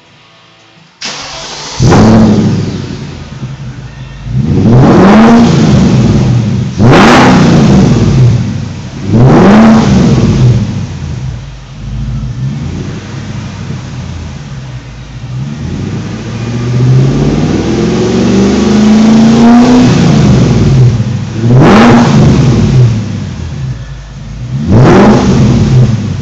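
BMW E38's V8 engine, exhaust fitted with Magnaflow mufflers and straight pipes, coming in about a second in and then being revved hard about seven times while standing, settling back toward idle between blips; one longer, slower rev comes in the middle.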